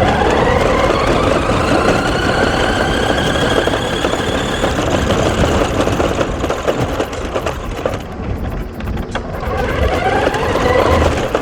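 Small electric motor of a toy RC car whining as it speeds up, the pitch rising at the start and again about ten seconds in, over a rough rumble.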